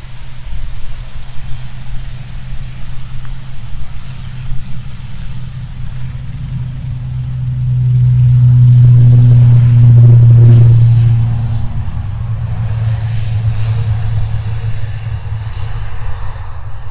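An aircraft's engines passing close by: a deep hum that builds to its loudest about eight to ten seconds in, then eases off, with a thin high whine joining near the end.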